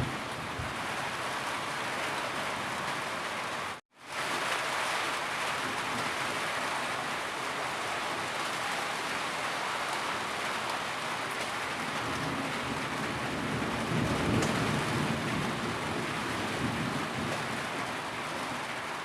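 Steady heavy rain falling. About four seconds in it cuts out to silence for a moment, then resumes. A low rumble swells for a few seconds in the second half.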